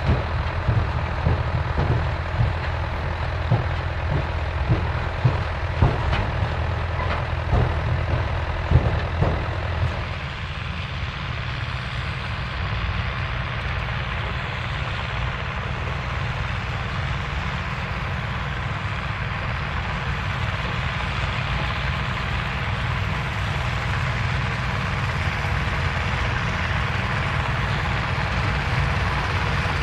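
Vintage farm tractor engines running with a steady low drone, with a string of sharp clacks over the first ten seconds or so. After about ten seconds the low drone eases and a steady rushing machine noise builds.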